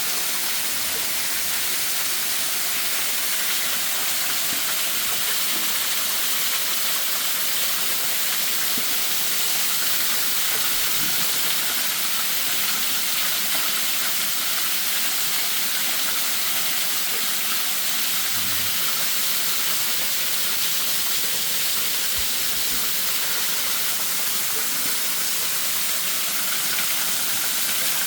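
Waterfall: falling water rushing as a steady, even hiss that never lets up.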